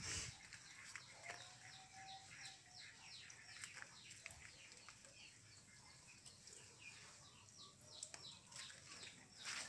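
Faint small bird chirping: a long run of quick, short downward-sliding chirps, several a second, with a few soft clicks.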